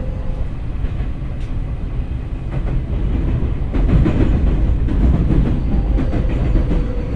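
Tokyo Metro 03 series subway train running, heard from inside the car. A steady low wheel-on-rail rumble grows louder about four seconds in, with faint steady motor-inverter tones and scattered clicks from rail joints.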